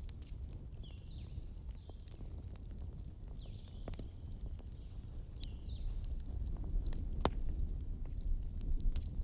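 Wood fire crackling: scattered sharp pops over a low steady rumble, with the loudest pop about seven seconds in.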